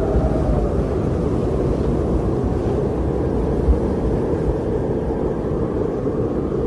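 Strong blizzard wind blowing steadily with a deep low rumble, gusting slightly without letting up.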